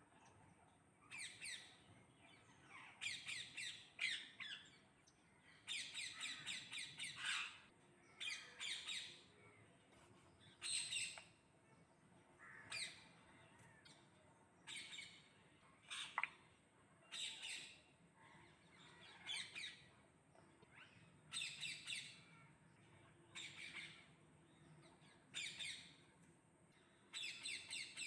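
Parrot giving a series of short, harsh squawks, one every second or two.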